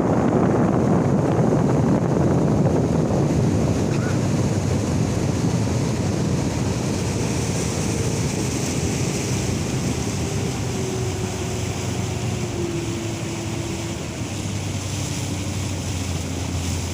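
Motorboat under way: wind buffeting the microphone and water rushing past the hull over a steady engine drone, slowly getting quieter. In the second half a faint engine tone slowly falls in pitch.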